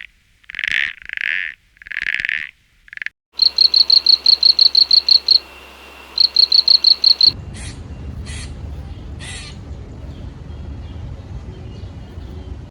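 A sequence of animal calls: four short high calls, then a rapid, even trill of about seven pulses a second, heard twice, then a few short chirps over a steady noisy background.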